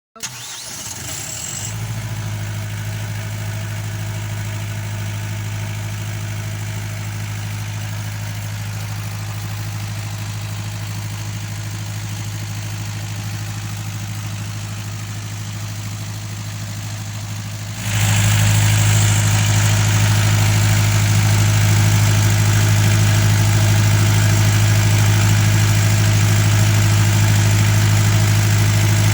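Caterpillar diesel generator engine starting after its injector pump has been reinstalled, catching within about a second and settling into a steady, even run. About 18 seconds in it abruptly becomes louder and stays at that level.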